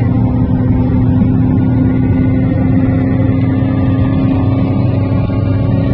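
Car engine running hard under load in a roll race, a steady loud drone that climbs slowly in pitch.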